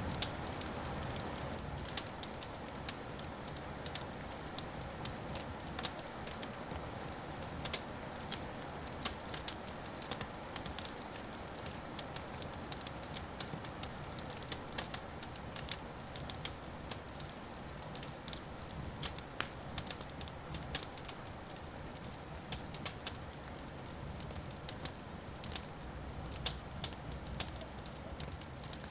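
Wood fire crackling steadily in a fireplace, with frequent sharp pops and snaps over a soft hiss of flame.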